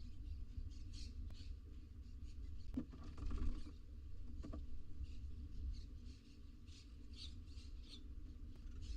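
Barn owls in a nest box making short, high, squeaky chirps, repeated irregularly, with a louder rustle or scuffle of movement about three seconds in. A steady low hum runs underneath.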